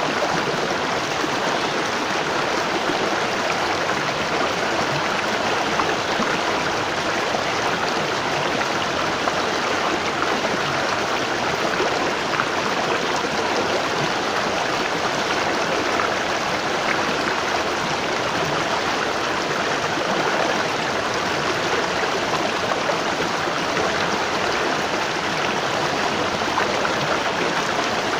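Waterfall: water falling and rushing in a steady, even splash with no breaks.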